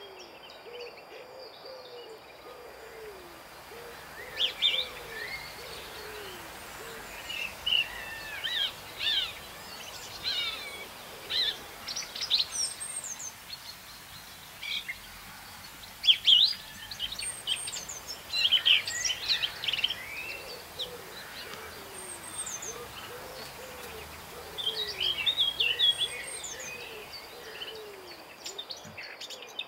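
Songbirds singing in loud, varied phrases of quick whistles and trills. A low call, repeated in quick runs, comes at the start and again near the end.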